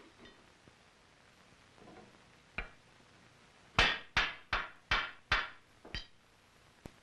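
Hand tool work on a wooden rifle stock: a single light knock, then a run of five sharp blows about two and a half a second, tapering off into two lighter taps. These are blows on a chisel cutting the inletting for the breech plug and barrel.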